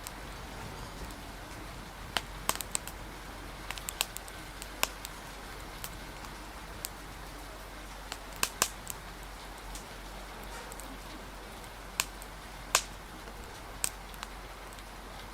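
Steady rain hiss with irregular sharp pops of a crackling wood fire, loudest in small clusters, over a faint murmur of cafe conversation.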